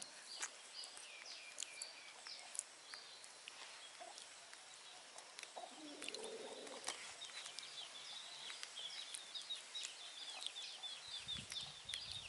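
Birds chirping faintly: many short high calls, coming thicker in the second half.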